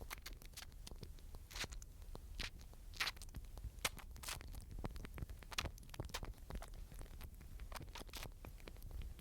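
An animal crunching and gnawing at food close to the microphone: an irregular run of sharp crackling clicks, a few louder snaps among them.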